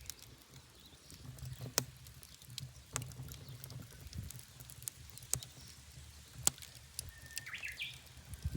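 Wood fire crackling in a pizza oven: a low steady rumble of burning with sharp pops from the wood about every second or two. A bird chirps briefly near the end.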